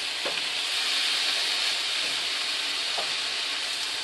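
Chicken, broccoli and kale sizzling steadily in a hot nonstick frying pan while being stirred with a wooden spatula, with a couple of faint knocks of the spatula against the pan.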